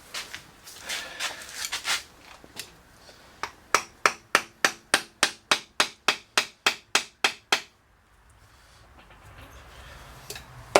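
Hammer striking at an engine oil pan that is glued on and stuck, trying to break it loose. First a few scattered knocks, then about three and a half seconds in a quick, even run of about fifteen blows, roughly four a second, each with a slight metallic ring, stopping abruptly.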